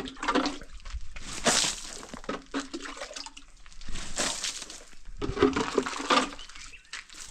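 Water being splashed in repeated surges onto fresh cement work to cure it.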